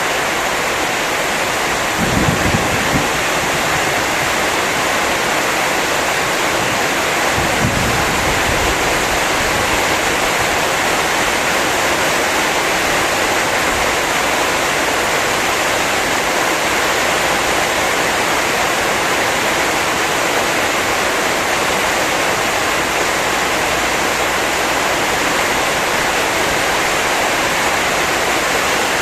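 Heavy rain pouring down in a steady rush, with two brief low rumbles, one about two seconds in and one around eight seconds in.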